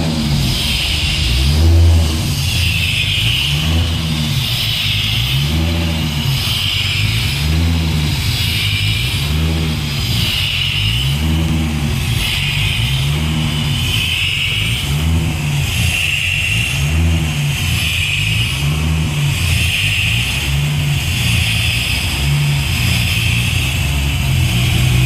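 Toyota 2JZ-GTE twin-turbo straight-six running just after a cold start. Its engine speed rises and falls in a regular cycle about every second and a half, then settles to a steady idle near the end.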